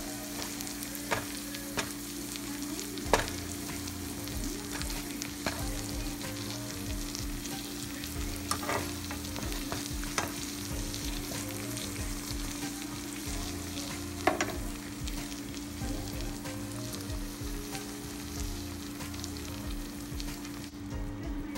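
Tilapia fillets and shrimp sizzling as they fry in a nonstick pan, with a few sharp clicks while they are stirred, the loudest about three seconds in and about fourteen seconds in.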